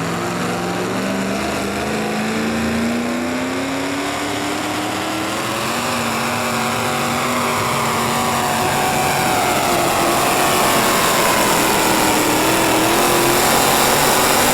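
A pulling vehicle's engine working hard under load, its pitch climbing over the first few seconds and then holding high while it grows louder toward the end.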